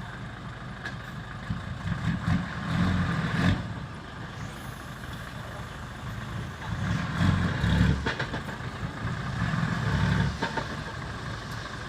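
Dump truck's diesel engine running, swelling louder three times as it is revved.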